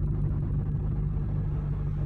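2008 Audi R8's mid-mounted 4.2-litre V8 idling steadily through an aftermarket Avior exhaust, a low even rumble with no revving.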